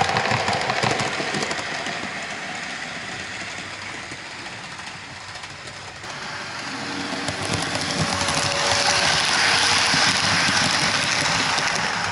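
OO gauge model train running on its track, with the steady sound of motor and wheels on rails. It fades as the train moves away, then grows louder again as it comes back past, loudest near the end.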